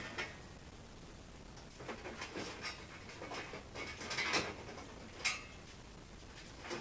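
Scattered light clatter and rustling of refrigerator parts being handled during dismantling, a busy patch of small knocks in the middle and a single sharp click about five seconds in.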